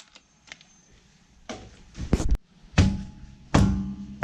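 A car wheel being pulled off its hub and handled: a series of about five heavy knocks and thunks, the later ones with a short low ring.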